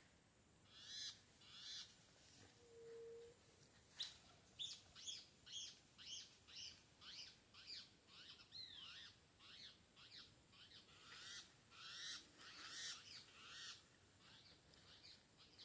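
Faint bird calls: two chirps near the start, then from about four seconds in a long run of short, sharp notes, roughly two a second. A brief low steady tone sounds near the third second.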